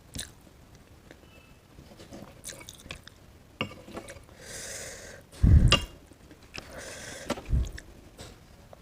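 Close-miked eating sounds: wet mouth clicks and chewing on paneer curry and roti. Two breathy hisses and two dull low thumps come through, the loudest about five and a half seconds in.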